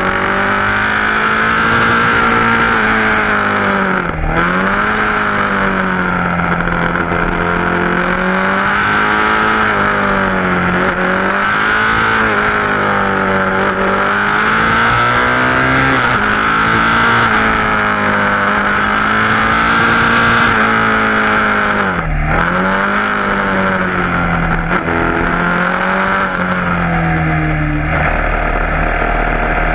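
KTM Duke 690's single-cylinder engine with an Akrapovic exhaust, ridden on board with the revs rising and falling continually. The revs dip sharply twice, about four seconds in and again about twenty-two seconds in. Near the end they drop and settle lower.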